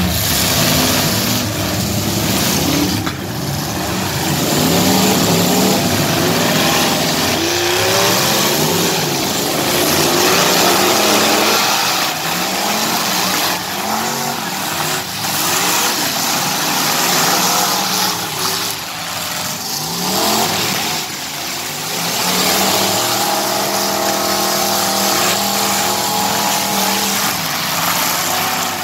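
Demolition derby cars and trucks revving their engines hard, the pitch climbing and falling over and over, over a constant din of engine and crowd noise.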